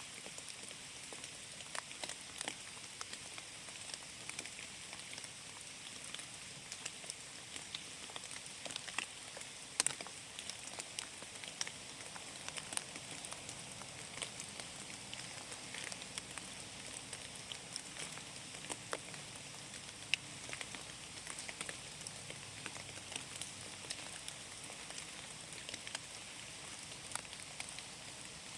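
Rain falling in a forest: many separate drops ticking at random over a soft, steady hiss.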